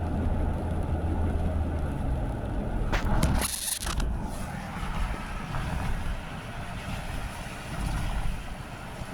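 Car driving on a wet road in the rain: a steady low road and engine rumble with tyre hiss, and a short, loud hiss about three seconds in.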